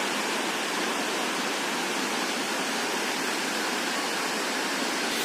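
Dassam Falls waterfall: a steady, unbroken rush of falling water.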